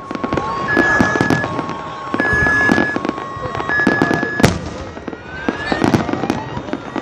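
Fireworks going off: many sharp bangs and crackles, one heavy bang about four and a half seconds in. Under them an alarm or siren alternates between two tones for the first four seconds or so, then changes to rising whoops.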